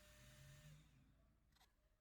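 Near silence: a faint steady hum dies away within the first second, leaving only room tone.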